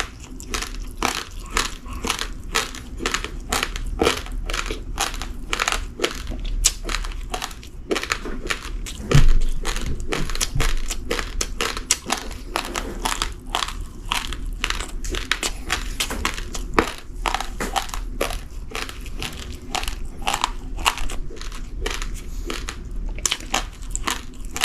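Uncooked rice grains being chewed, crunching steadily about three times a second, close to the microphone. A louder, duller thump comes about nine seconds in.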